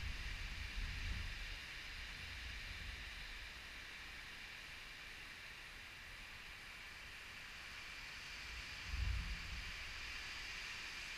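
Storm wind gusting and buffeting the microphone: low rumbles that die down over the first couple of seconds and come back in a brief gust about nine seconds in, over a steady high hiss.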